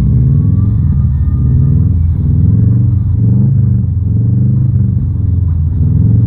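Loud engine of a modified car revving, its pitch rising and falling several times over a deep, steady exhaust note.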